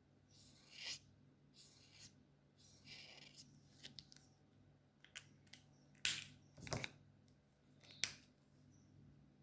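Alcohol markers worked on paper: short scratchy strokes and several sharp clicks, the loudest about six seconds in and another near the end.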